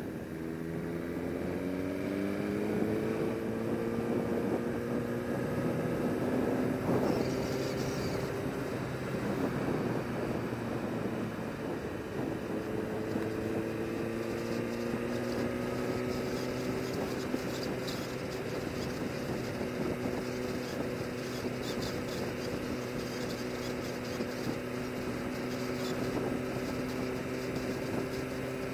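Sport bike engine pulling up through the revs, its pitch rising over the first several seconds, then rising again about twelve seconds in before settling to a steady cruise, with wind noise underneath.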